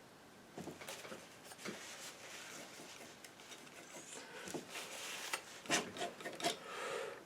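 Irregular scraping and rubbing on a hard surface, broken by several sharp clicks and taps, loudest near the end and stopping abruptly.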